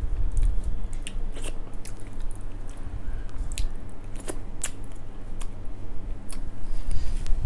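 Close-miked chewing of a hand-fed mouthful of rice and dal, with many short, wet mouth clicks and smacks.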